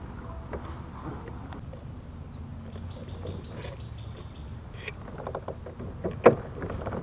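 A bird singing a fast, high trill of repeated notes for about two seconds, over a low outdoor rumble. A few sharp knocks follow near the end, one of them loud.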